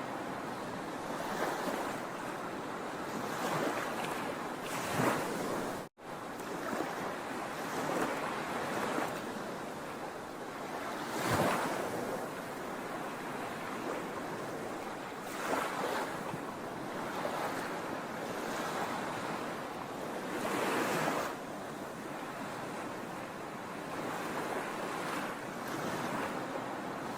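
Sea waves washing onto a shore: a continuous hiss of surf with louder surges every few seconds as waves break. The sound drops out for an instant about six seconds in.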